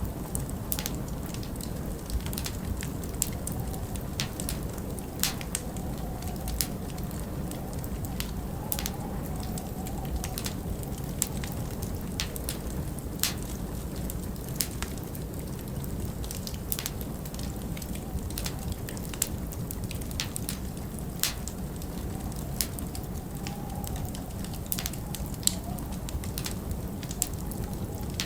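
Wood fire crackling, with irregular sharp pops several times a second over a steady low rumble of winter wind.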